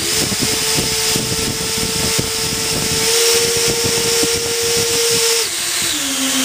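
Three electric ducted fans of a large RC airliner model running at full power: a loud, steady high whine over rushing air. About five and a half seconds in, the pitch drops and begins to fall as the fans spool down, around the failure in which the number 2 fan's duct came loose and struck the fan.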